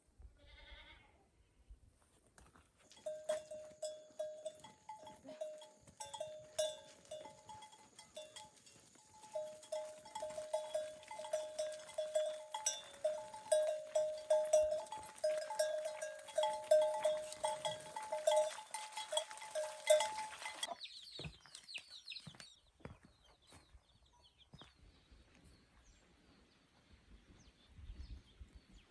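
Animal calls: many short pitched cries repeated quickly, over a steady high hiss, for most of the stretch, all stopping suddenly together; after that, only faint clicks and rustling.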